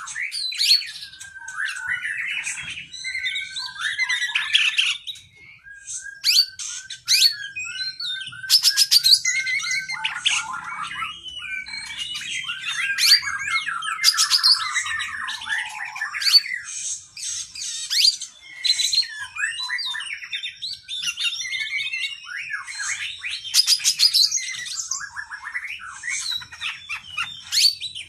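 Oriental magpie-robin (kacer) singing a long, unbroken, varied song: clear whistles, warbled trills and quick chattering runs of notes.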